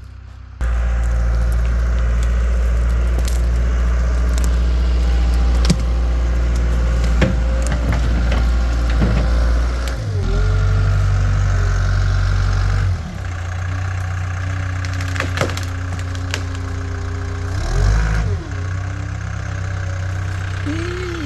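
Caterpillar 252B skid steer's diesel engine running hard, its pitch shifting as the machine pushes into trees, with scattered cracks and snaps of breaking wood.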